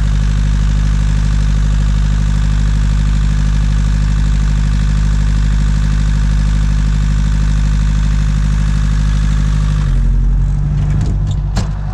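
Diesel engine of a lorry trailer's refrigeration unit running steadily while its fuel system is bled by hand-pumping the lift pump. About ten seconds in, the engine's sound changes and a few sharp clicks follow.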